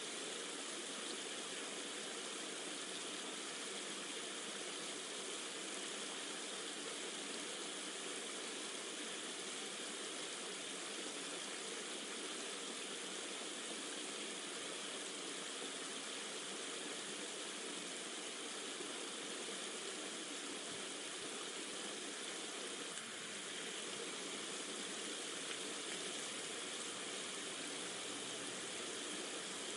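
Steady, even rush of flowing stream water, with no distinct events.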